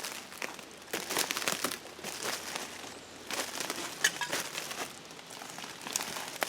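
Crinkling and crunching of dry debris in irregular short bursts.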